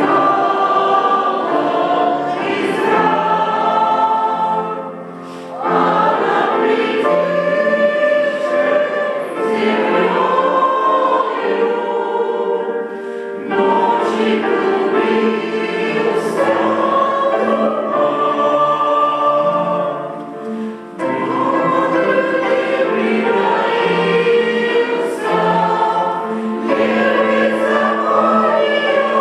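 Mixed church choir singing a hymn in sustained phrases, with brief breaths between phrases.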